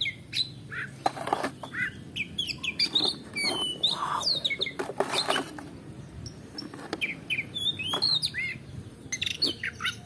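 Small birds chirping again and again in short rising and falling notes, with clicks and knocks of plastic toys being picked up and set down on a board, loudest around the middle.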